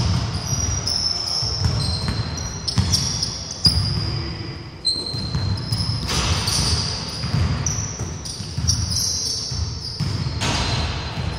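Basketball bouncing on a wooden gym floor during a pickup game, with repeated knocks, mixed with many short, high squeaks of sneakers on the hardwood.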